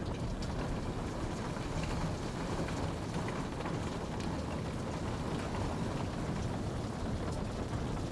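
Steady rain falling, a continuous even hiss with scattered individual drops ticking through it.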